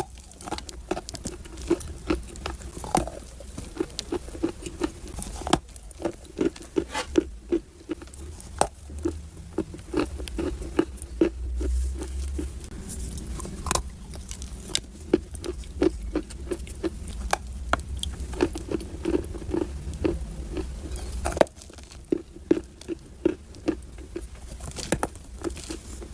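Dry clay being bitten and chewed close to the microphone: sharp crunching cracks over a steady chewing rhythm of about two to three bites a second.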